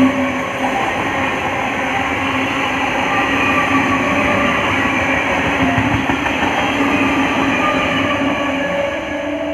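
An Eastern Railway electric multiple unit local train running past close by: a steady, loud rumble and clatter of wheels on rails that eases slightly near the end as the last coaches go by.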